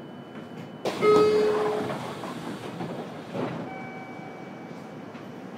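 Interior sound of a JR Kyushu 303 series electric commuter train: a sudden loud burst about a second in, with a short horn-like tone, fading over about two seconds. A smaller burst comes a couple of seconds later, over a low steady background.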